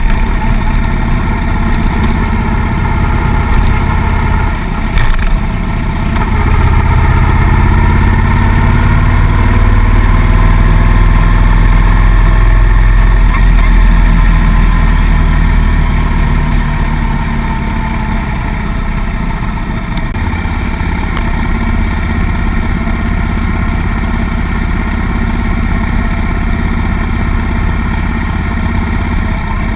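Suzuki M800 V-twin motorcycle engine running while riding, heard from the bike. It pulls harder and louder from about six seconds in, then eases off in the second half.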